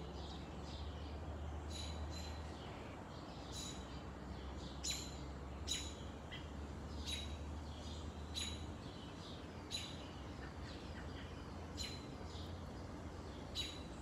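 Bird chirping: short, sharp calls repeated every second or two, over a low steady rumble.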